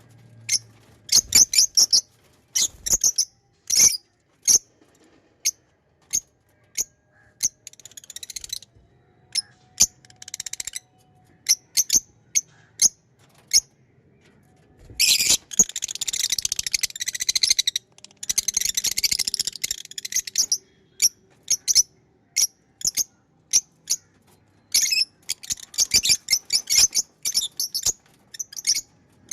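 Pet lovebirds calling with short, sharp, high-pitched chirps, spaced out at first, then breaking into rapid, dense chattering about halfway through and again near the end.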